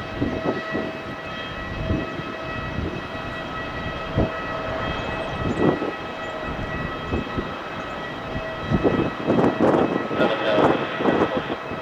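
Steady whine of a Boeing 777's jet engines on approach, several fixed tones held over a rush of noise, with gusty wind buffeting the microphone, the gusts heavier in the last few seconds.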